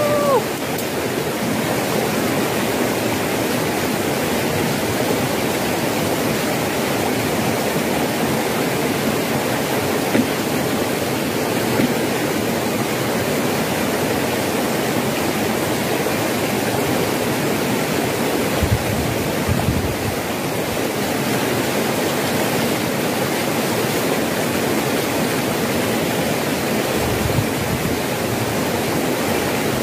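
Steady rush of flowing water, an even hiss without change, with a short chirp at the very start and a couple of brief low thumps later on.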